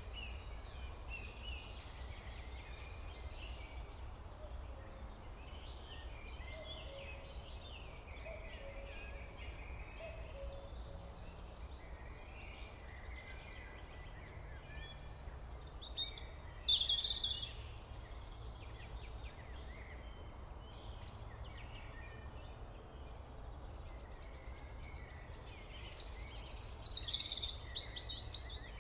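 Small birds chirping over a low steady hum, with louder bursts of chirping about halfway through and again near the end.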